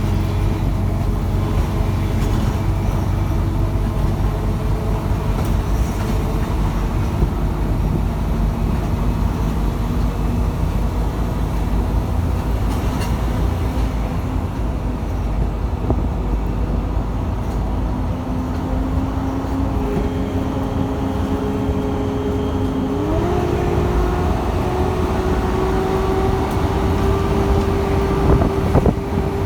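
Mercedes-Benz O500UA articulated bus running, a steady low engine rumble. In the second half a whine rises in pitch in steps, holds, and drops off near the end.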